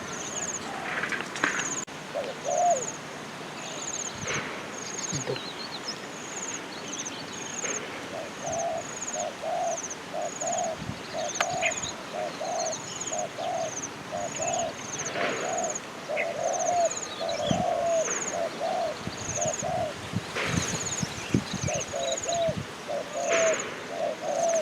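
Dove cooing in a long run of short, repeated coos, sparse at first and then steady from about a third of the way in. Behind it a high chirp repeats about once a second.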